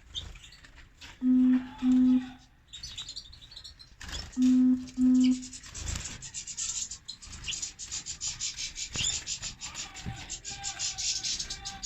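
Caged goldfinches chirping, a quick scratchy high twitter that thickens through the second half. A loud, low double beep sounds twice, about a second in and again about four seconds in.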